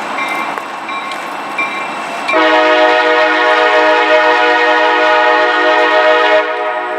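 A train rumbling by, with a faint repeating tone. About two seconds in, its horn sounds one long, loud chord of several notes and cuts off about four seconds later.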